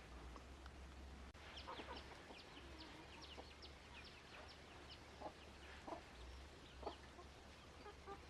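Chickens calling faintly: a quick run of short, high peeps in the first half, then a few separate low clucks about a second apart.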